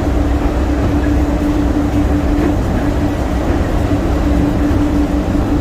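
Skylink automated people-mover train running at speed, heard from inside the car: a steady low rumble with a constant hum.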